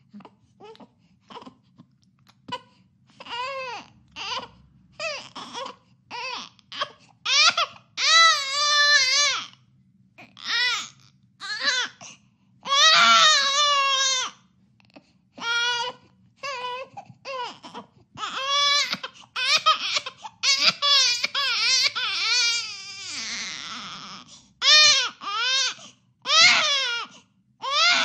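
A baby crying in repeated short, high-pitched wails, with one longer wail falling in pitch near the end.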